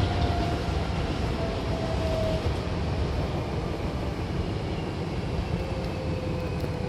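Hankyu commuter train heard from inside the car: a steady low rumble of the running train with a faint motor whine that slowly falls in pitch as the train slows for a station.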